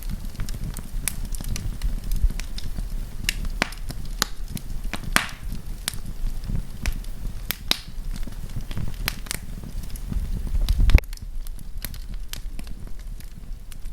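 Wood campfire crackling, with sharp irregular pops and snaps over a steady low rumble of the flames, and one louder rushing swell about eleven seconds in.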